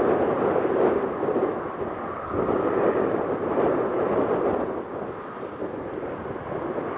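Strong gusting wind buffeting the microphone, rising and falling in uneven surges.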